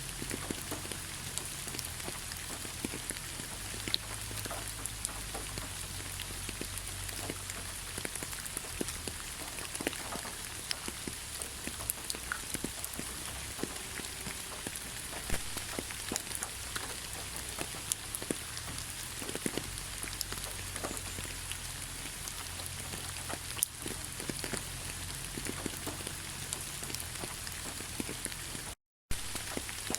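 Heavy rain falling: a steady hiss crowded with the sharp taps of individual drops striking a surface. The sound cuts out for a split second near the end.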